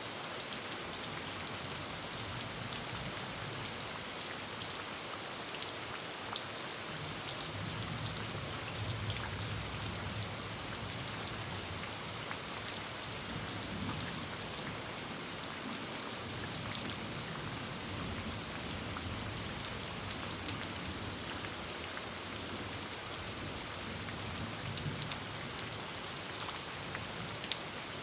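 Steady heavy rain falling on a tin roof, with scattered sharper drop hits.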